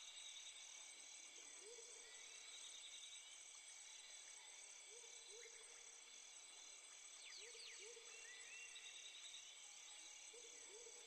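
Faint rainforest insect chorus: several steady high-pitched trills, one pulsing about twice a second. Short, low, rising calls from another animal repeat every second or two, and a few quick high whistled notes come about seven seconds in.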